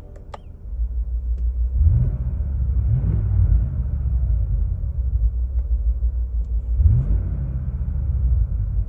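2025 Land Rover Defender Octa's 4.4-litre petrol V8 running with a deep rumble, revved up briefly three times: about two seconds in, about three seconds in, and near seven seconds in.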